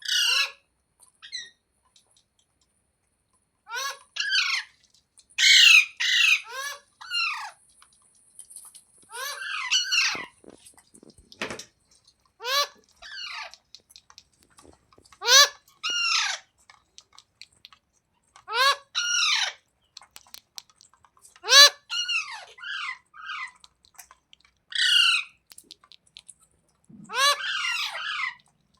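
Green rose-ringed parakeet (Indian ringneck) giving loud, harsh squawking calls in short bouts of a few quick notes, repeated every two to three seconds.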